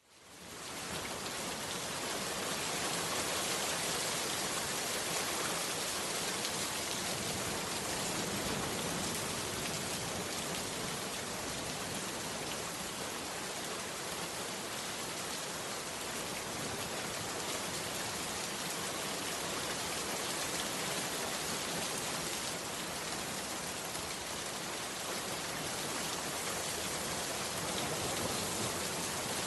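Heavy rain falling steadily, a dense even hiss of drops. It fades in from silence right at the start.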